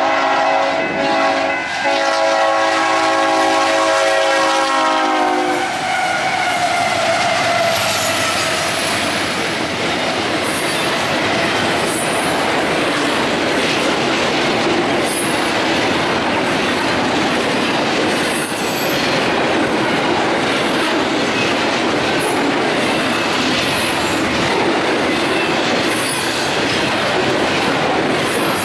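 Union Pacific freight locomotives' air horn blowing a steady multi-note chord that cuts off about five seconds in, then the lead units passing with their engine sound dropping in pitch. After that comes the steady rumble and clickety-clack of double-stack container cars rolling by on jointed rail, with a few brief high wheel squeals.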